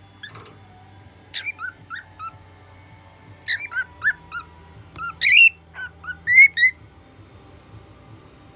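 Male lutino cockatiel singing: a run of short whistled notes that sweep sharply up and down, in quick phrases that grow louder toward the end of the song before it stops.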